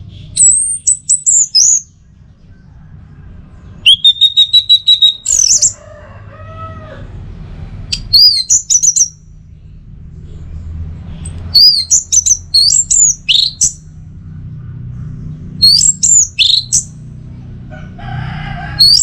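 Orange-headed thrush (anis merah) singing: short, high whistled phrases with quick pitch slides, repeated every few seconds, with a rapid trill of evenly repeated notes about four seconds in. A softer, lower call sounds briefly around six seconds, over a steady low hum.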